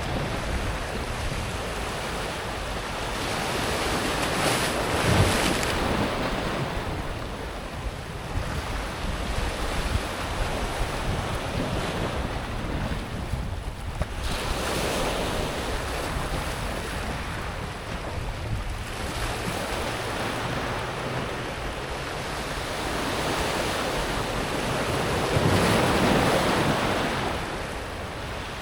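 Small sea waves breaking on a pebble beach and washing over the stones, in swells about every ten seconds. The loudest surges come about five seconds in and near the end.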